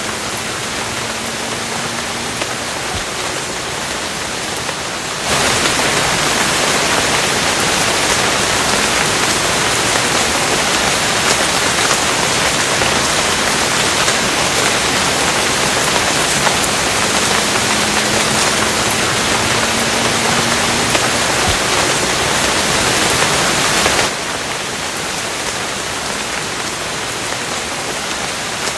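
Steady rainfall, even and hissing. About five seconds in it abruptly turns louder and heavier, then cuts back suddenly to the lighter rain a few seconds before the end.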